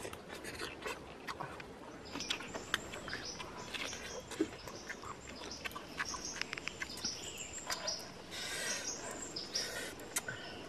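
Close-up chewing and mouth sounds from eating clam meat wrapped in lettuce, many small wet clicks and smacks. Birds chirp briefly and high-pitched in the background.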